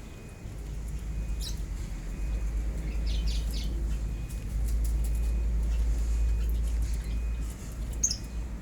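Lovebirds chirping in short high bursts: about a second and a half in, around three seconds in and once more near the end. A steady low rumble runs underneath and is the loudest sound.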